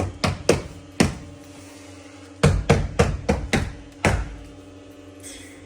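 About ten sharp knocks on a large-format porcelain stoneware slab, as it is tapped to bed it into the tile adhesive. Four come in the first second, then after a pause six more follow in quick succession.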